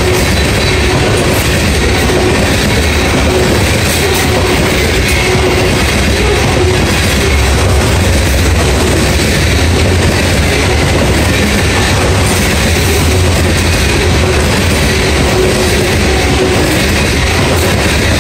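Loaded coal hopper cars rolling past at speed, their wheels on the rails making a loud, steady rumble.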